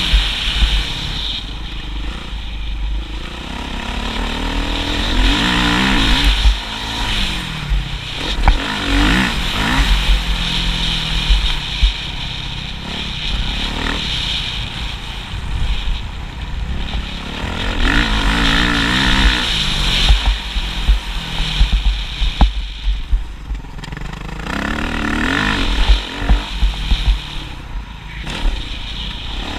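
Motocross motorcycle engines revving, the pitch rising and falling again and again as the bikes accelerate and back off, over a constant deep rumble.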